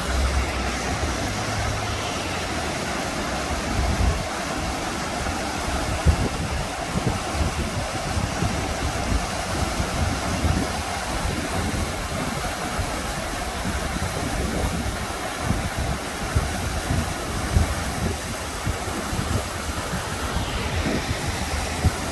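Steady rush of a mountain river, with wind buffeting the microphone in irregular low thumps.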